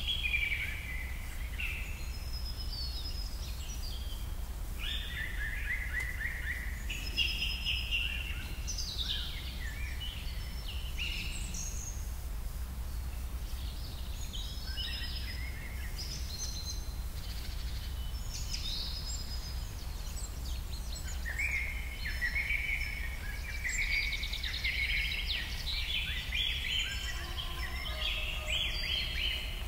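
Small birds chirping in repeated bursts of short high calls, over a steady low hum.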